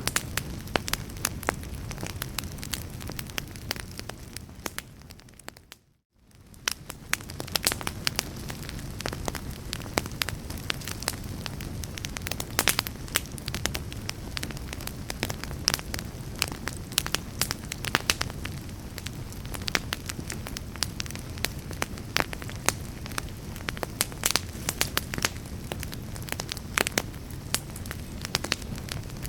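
Wood fire crackling, with frequent sharp pops over a steady low rumble. The sound fades away about five seconds in, drops to near silence for a moment, and fades back up a second or two later.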